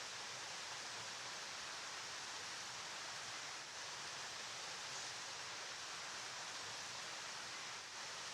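Flowing river water: a steady, even rush with no separate splashes or changes.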